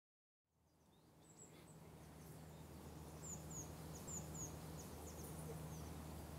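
Faint outdoor ambience fading in from silence: small birds chirping, many short high calls in quick runs, over a steady low hum.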